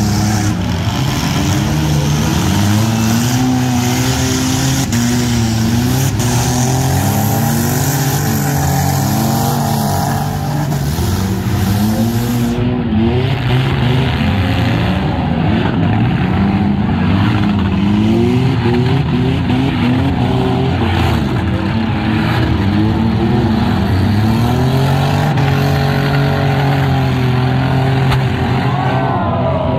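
Several demolition-derby compact cars' engines revving up and down at once, with repeated knocks and thuds of cars ramming each other.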